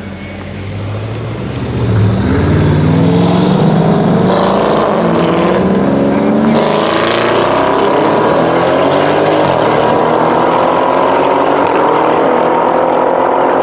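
Audi RS6 Avant C7's twin-turbo V8 with a decatted Akrapovic exhaust under full-throttle acceleration: the revs climb and break at upshifts through the lower gears, then rise in one long, slow pull in a high gear.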